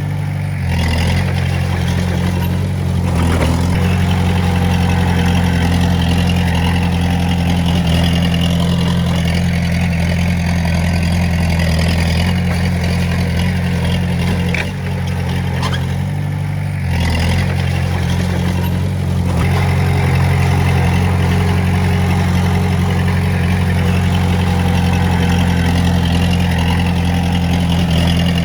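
Heavy-equipment diesel engine running steadily under work, with brief changes in its note about a second in, around three seconds in and again around fifteen to seventeen seconds in.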